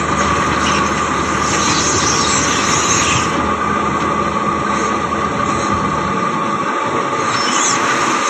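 Heavy ore-haulage truck running, a steady high whine over a broad mechanical noise, with its low engine rumble dropping away about six seconds in.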